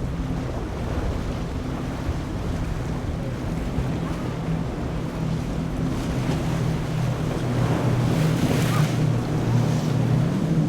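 Boat engine droning steadily under the wash of waves and wind buffeting the microphone, with a louder rush of water about eight seconds in.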